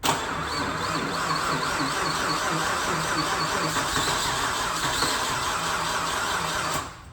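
Rebuilt Nissan Skyline RB-series straight-six engine turning over and running steadily on its first start after the rebuild. It cuts off sharply near the end.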